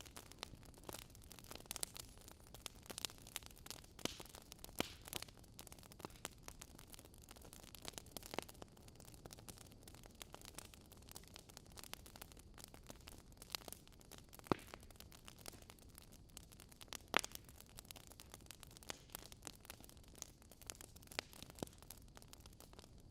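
Fire crackling: irregular sharp pops and snaps over a faint steady hiss, with a few louder pops near the middle.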